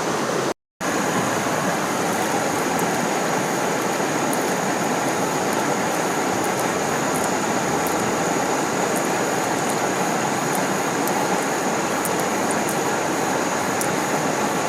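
Steady rush of flowing stream water below a waterfall, broken by a brief dropout to silence about half a second in, with a faint steady high tone over it after the break.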